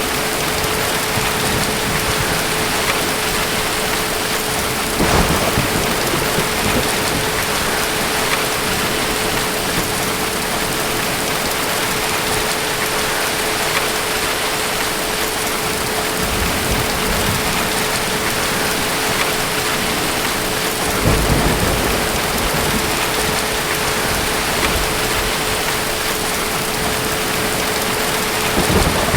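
Steady heavy rain with thunder rumbling a few times: a short roll about five seconds in, a longer rumble around twenty-one seconds, and another near the end. A faint steady hum runs underneath.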